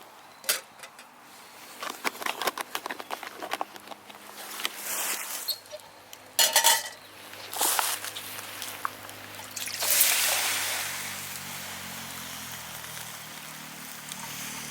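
Handling noises: scattered clinks and knocks, a louder clatter about six and a half seconds in, and a rushing noise about ten seconds in that slowly fades.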